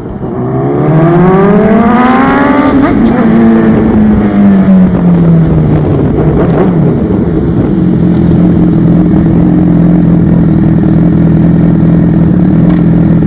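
Honda CBR1000RR's inline-four engine under way. The revs climb for about two and a half seconds, then fall away over the next few seconds, and the engine settles into a steady cruise.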